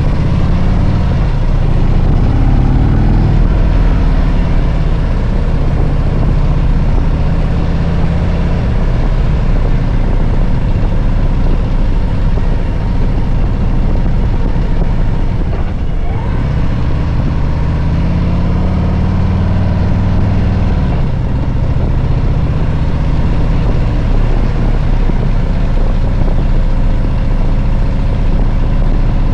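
Harley-Davidson Road Glide V-twin engine running while riding, loud and steady. Its pitch rises and falls a few seconds in and again about halfway through as the speed changes.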